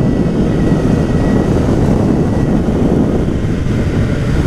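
2017 BMW S1000R inline four-cylinder, fitted with an Akrapovic titanium slip-on exhaust, running steadily under way, heard through a loud rush of wind and road noise.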